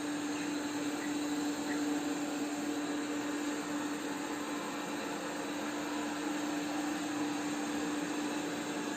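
Polaris PVCR 3200 IQ Home Aqua robot vacuum running in perimeter (edge-cleaning) mode: a steady whirring of its suction fan and brushes over a steady hum, which drops away near the end.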